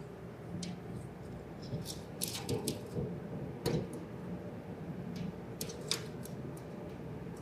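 Scattered light clicks and metallic clinks of hand tools and parts being handled, over a steady low hum. The loudest click comes a little under four seconds in.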